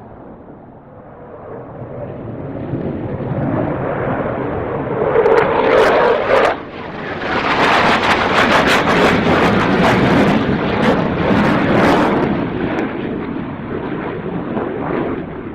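Jet aircraft flying past at low level: a rushing noise swells over several seconds, stays loud with a crackle for several seconds more, then fades away.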